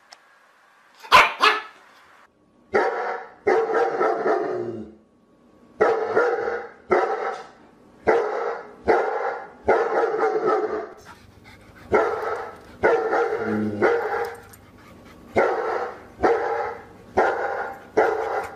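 Dog barking over and over, about one bark a second, after a sharp double bark about a second in.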